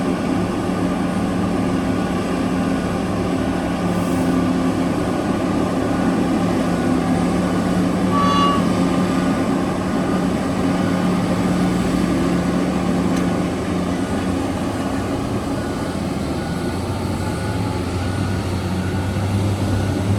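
Heavy mining machinery's diesel engines running steadily, the engine note dropping lower about three quarters of the way through. A short high beep sounds once about eight seconds in.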